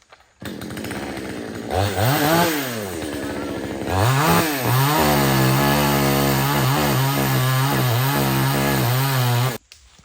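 Chainsaw engine running at idle, then revved up and back down about two seconds in. It is revved again and held at high speed with slight dips for about five seconds, then cuts off suddenly near the end.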